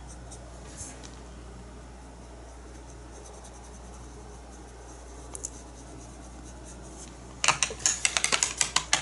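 Over a faint steady room hum, a quick run of light, sharp taps from a paintbrush starts about a second and a half before the end, several a second.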